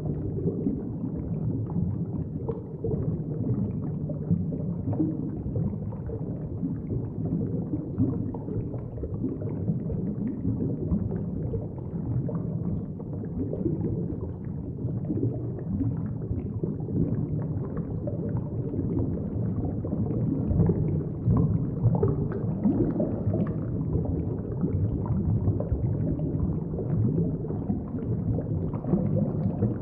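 Steady low, watery rumble with faint gurgling, like underwater ambience.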